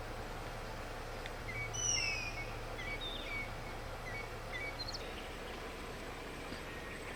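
Wild birds calling over a steady outdoor hiss: one loud falling whistle about two seconds in, among a run of short chirps that stop about five seconds in.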